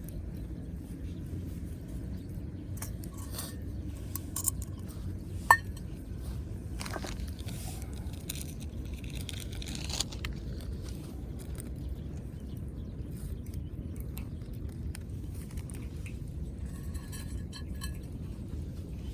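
Metal camp cookware clinking now and then. The loudest is a single sharp ringing clink about five and a half seconds in, with lighter clicks around it. Under it all is a steady low rumble.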